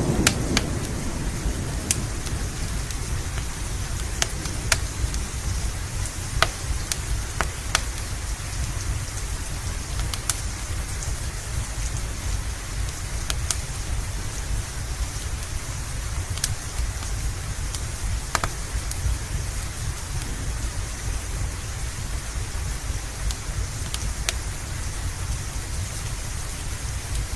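Steady heavy rain with a deep low rumble beneath it; sharp single pops, typical of a crackling wood fire, break through every second or two. A thunder rumble is fading out in the first moment.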